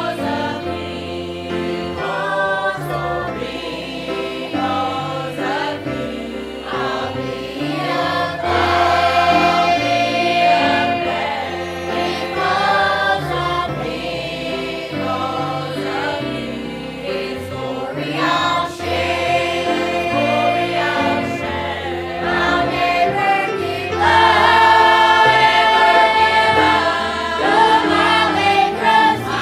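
A choir singing a gospel song with instrumental accompaniment, holding long notes over a moving bass line.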